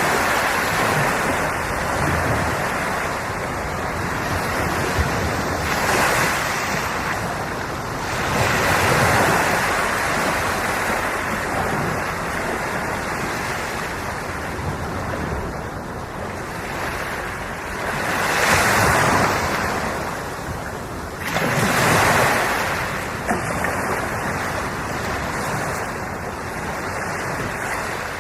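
Sea waves breaking and washing on the shore, swelling louder every few seconds, with wind buffeting the microphone.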